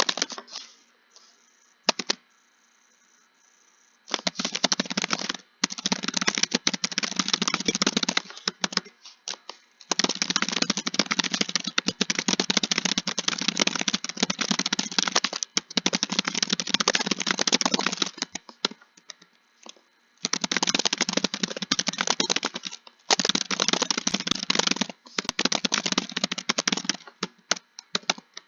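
Keyboard being typed on: fast runs of keystrokes, each run a few seconds long, broken by short pauses, with a few single key clicks at first.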